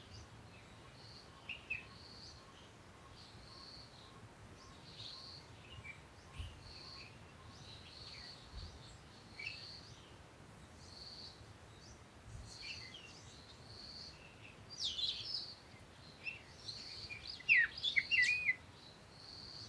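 Birds chirping: one bird repeats a short high note about once a second, while others add scattered chirps and quick twittering calls that get busier and louder near the end.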